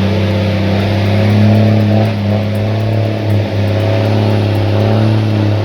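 Heavy engine running steadily at a nearly constant pitch, with a brief dip about three and a half seconds in.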